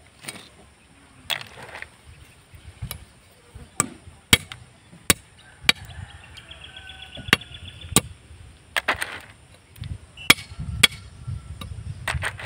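Machete blade chopping the pointed tips off freshwater snail shells against a stone: a dozen or so sharp, irregular cracking knocks. Now and then a short rattle as wet snail shells are picked from the basin.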